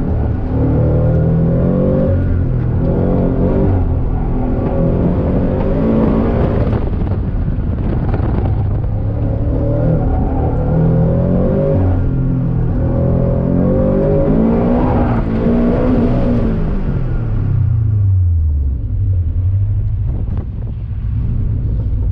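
Supercharged 2022 Subaru BRZ's 2.4-litre flat-four, heard from inside the cabin while driven hard: the revs climb and drop again and again. Near the end the engine note falls steadily as the car slows, and it settles low.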